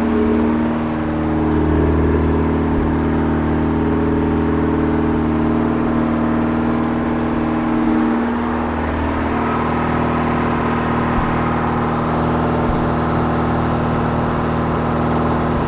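Zastava 101's four-cylinder engine idling steadily just after a cold start on its new single-barrel Weber-type carburettor. About eight seconds in the engine note dips briefly and settles slightly lower.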